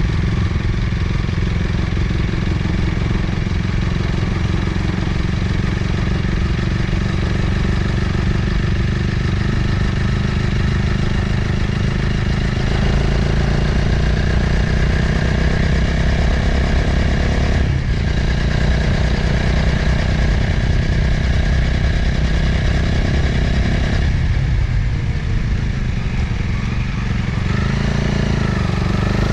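Motorcycle engine running steadily under way, with wind noise over the microphone. The engine note breaks briefly partway through and shifts again near the end.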